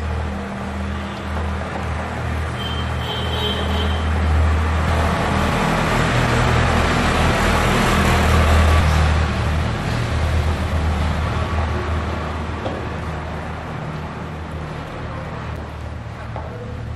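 A motor vehicle passing: a low engine hum under a rushing noise that builds to a peak about halfway through and then fades.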